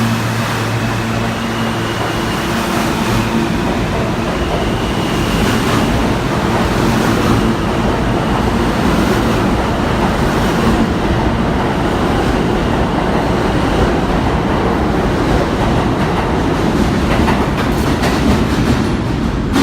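New York City subway train running at speed through the tunnel: a steady loud rumble of wheels on rail, with a motor whine that fades out about seven seconds in.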